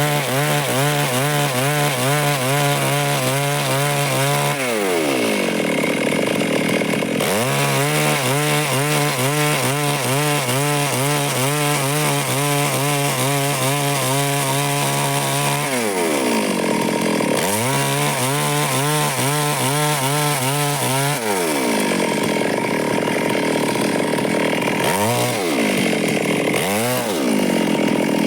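Stihl chainsaw running at full throttle while cutting wood. Three times it winds down as the throttle is released, and twice it revs back up into the cut. Near the end come two short throttle blips.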